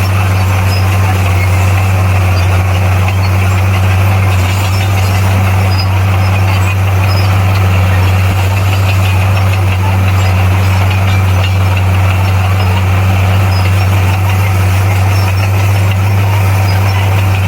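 Bulldozer's diesel engine running steadily with an even, unchanging low drone.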